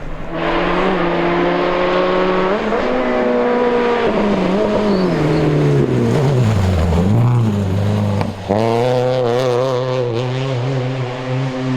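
Naturally aspirated Subaru Impreza 2.5RS rally car's flat-four engine under hard driving: the engine note climbs, falls away for a few seconds as the car slows, then picks up again, with a short break in power about eight seconds in at a gear change.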